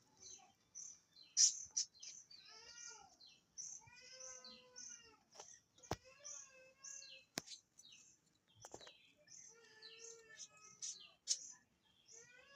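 Budgerigars chirping: a steady run of short, high chirps about two or three a second, with a few longer wavering calls and some sharp clicks in between.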